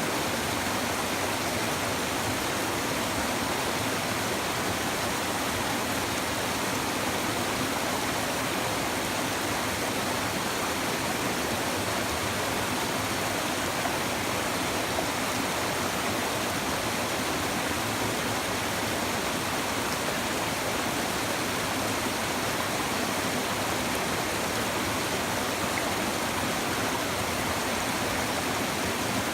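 Shallow river water babbling steadily over stones.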